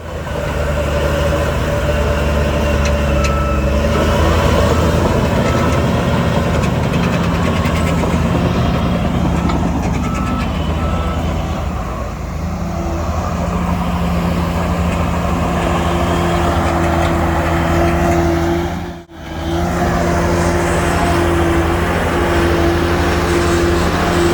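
Heavy diesel earthmoving machinery running steadily under load, with a reversing alarm beeping intermittently in the first half. The sound breaks off for a moment near the end and then carries on.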